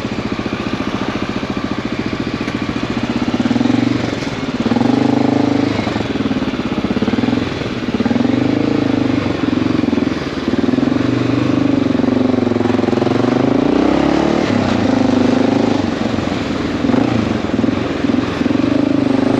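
Motorcycle engine running at low speed, its revs rising and falling again and again as the bike creeps forward in stop-and-go traffic.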